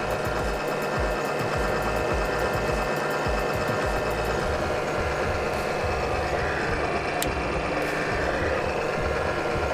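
Kaneda U65 tabletop three-roll mill running: a steady motor and roller drive drone with many held tones and an uneven low rumble, a faint fast ticking in the first few seconds and a single sharp click about seven seconds in.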